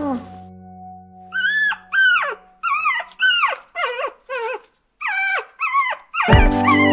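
Puppy whining, about ten short high-pitched cries in a row, each rising then falling in pitch. Music with a plucked guitar comes in near the end.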